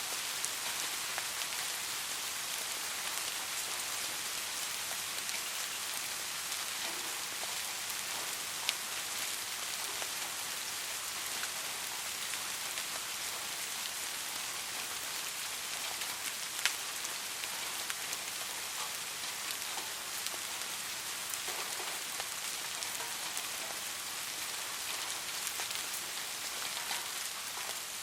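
Steady soft rain: an even hiss of falling rain with scattered individual drop ticks, two of them sharper, about a third of the way in and past the middle.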